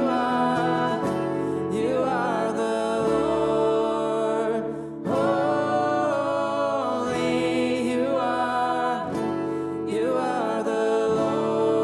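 Slow worship music led by acoustic guitar with sustained chords, moving in gentle phrases with short lulls between them.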